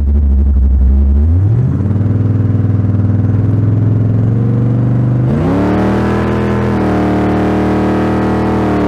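Car engine running loudly, its pitch rising about a second and a half in and again about five seconds in, holding steady after each rise.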